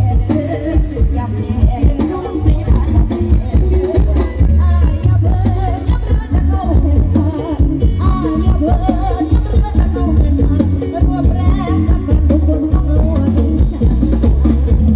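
Loud live band music from a Thai procession sound truck (rot hae): a heavy bass and drum beat under a singer, as picked up by a phone's microphone.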